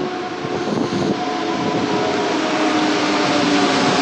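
Electric locomotive-hauled passenger train running in along a station platform. Its rumble grows steadily louder, with several steady whining tones over the noise.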